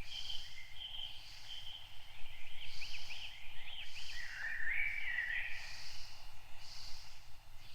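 Several wild birds calling and singing, with chirps and a warbling phrase near the middle, over a steady background hiss. A short, higher sound repeats about once a second throughout.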